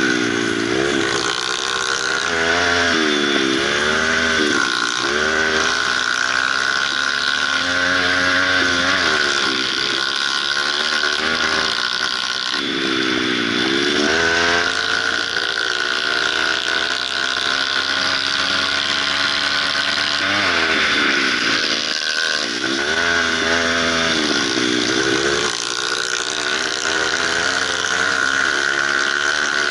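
Kawasaki KLX150 dirt bike's single-cylinder four-stroke engine under way on a gravel trail, its pitch rising and falling again and again with the throttle, over a steady hiss of wind and tyres on gravel.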